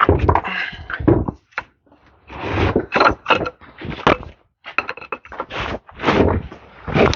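An irregular series of knocks and clanks from hand tools working on the tractor's parts, with short gaps between clusters of strikes.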